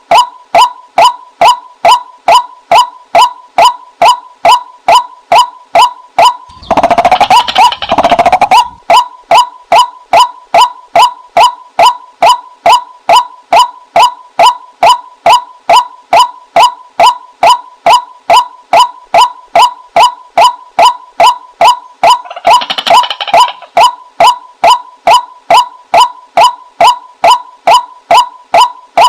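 White-breasted waterhen calls, a female's call of the kind played as a decoy to lure waterhens: a steady run of loud, even notes about two a second. The run is broken twice by a short burst of rapid, harsher chatter, about seven seconds in and again about twenty-three seconds in.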